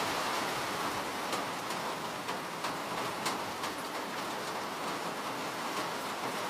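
Steady rain hissing, with a scattering of individual raindrops landing in sharp ticks, most of them in the first half.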